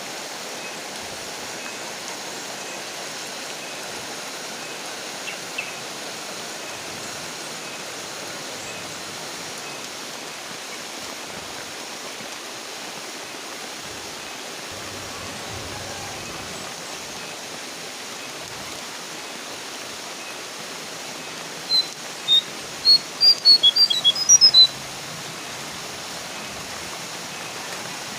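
Steady rain hiss, and about three-quarters of the way through a brown jongkangan bird's call: a quick run of about a dozen short, high, clear notes lasting under three seconds.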